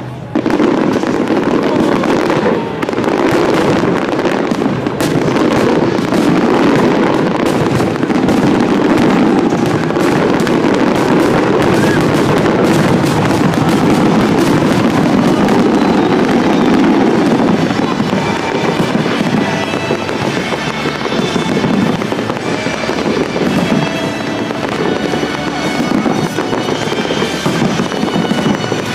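Aerial fireworks display: shells bursting one after another, many sharp bangs and crackles in quick succession, with music playing alongside.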